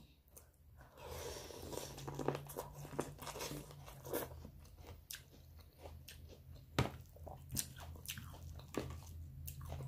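Close-up chewing and biting of seafood-boil food, with crunches and sharp mouth clicks scattered throughout.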